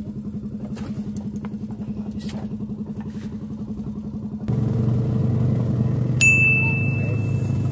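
An engine running steadily with a fast, even pulse, which changes suddenly about halfway through to a louder, deeper note. Near the end a single bright ding rings on.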